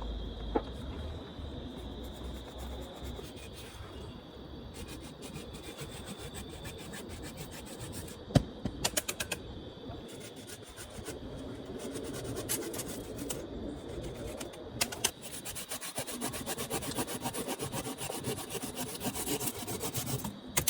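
A hand tool rasping against wood in fast, rhythmic strokes, with a few sharp knocks, over a steady high insect drone.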